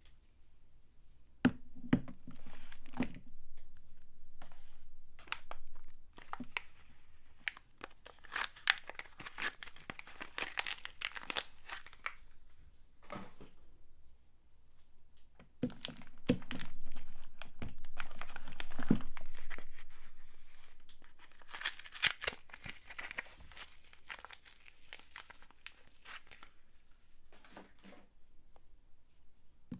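Soap wrapping being crinkled and torn open by hand, in irregular rustling spells, with a few soft knocks as the bar is handled.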